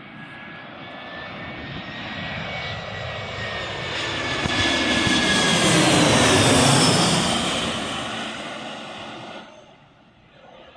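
Jet engines of an Airbus A320-family airliner passing overhead: the noise swells to a loud peak about two-thirds of the way in, with a whine falling in pitch as it passes, then drops away abruptly near the end.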